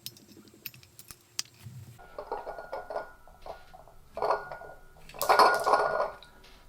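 Metal parts clinking and scraping against each other in several bursts, the loudest about five seconds in, with a faint metallic ring.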